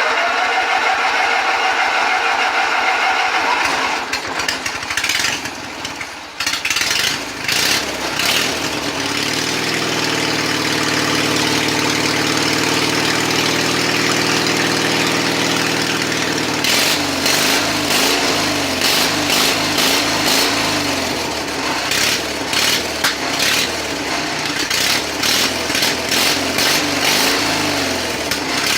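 Riding lawnmower engine being cranked by its starter with a whine, then catching and running steadily for several seconds. Past the middle it runs unevenly, with many sharp clattering knocks.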